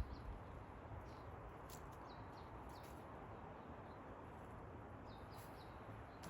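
Forest birds giving several short, high chirps that fall in pitch, some in quick pairs, over a faint steady low background rumble.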